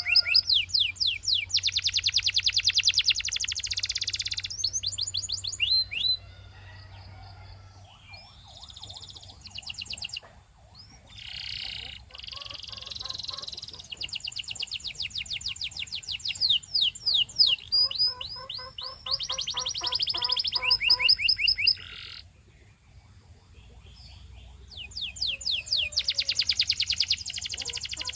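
Canary singing: long, fast trills of rapidly repeated high notes, broken twice by quieter passages of softer, scattered notes.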